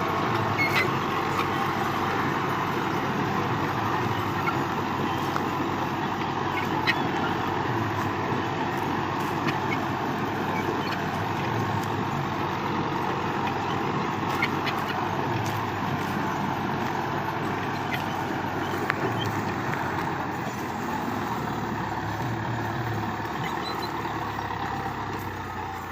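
New Holland tractor's diesel engine running steadily, with a few faint clicks and knocks over the top.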